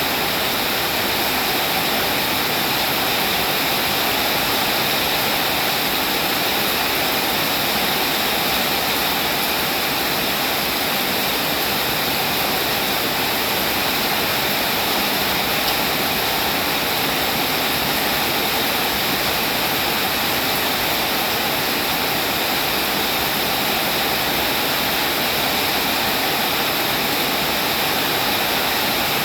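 Rain falling steadily, an even, unbroken hiss that does not change.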